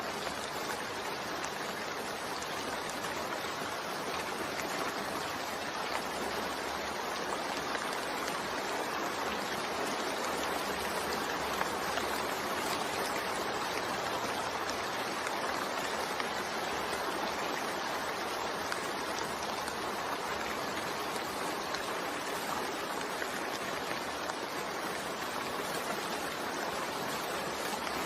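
Steady rain falling, a constant even hiss with no thunder or separate drops standing out.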